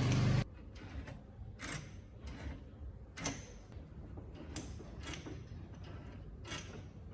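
A motor running with a steady hum cuts off about half a second in. It is followed by a few scattered light clicks and knocks, like tools or parts being handled.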